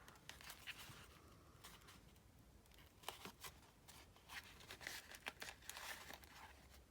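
Faint paper rustling with light taps and scrapes, as a paper card is slid into a paper pocket on a layered tag.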